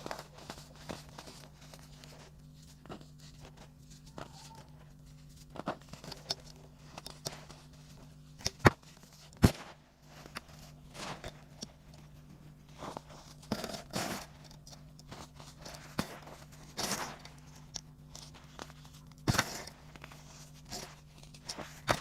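Crunchy baking soda chunks crumbling: irregular sharp crunches and crackles with a few longer gritty crumbles, the loudest snaps a little before the middle.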